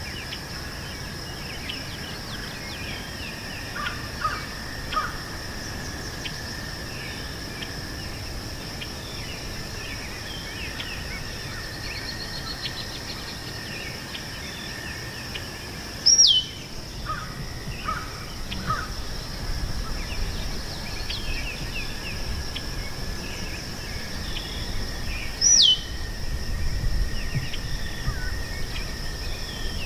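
Meadow ambience with birds calling: scattered short calls, and twice a loud, sharp whistle sliding downward, over a steady high-pitched hum. A low rumble grows in the second half.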